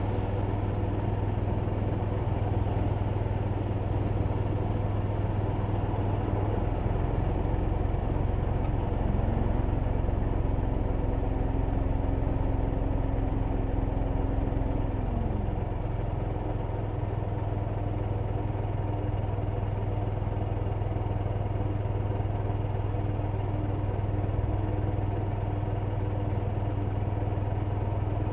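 Steady engine hum and road noise inside a kei car's cabin. About a third of the way in, a whining tone rises, holds for some six seconds, then falls away.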